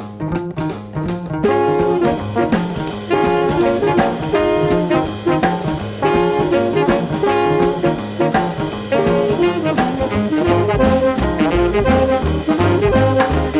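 Live swing band playing an instrumental intro. Upright bass and drums keep a steady swing beat, and about a second and a half in the clarinet, tenor saxophone and trombone come in together on the melody, with guitar comping.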